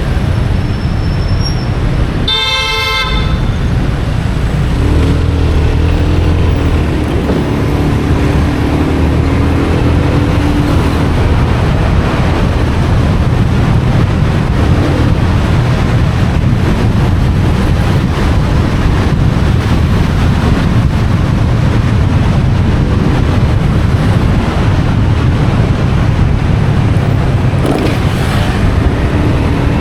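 Steady engine and road noise of a motorcycle riding in traffic, with a vehicle horn tooting once, briefly, about two and a half seconds in.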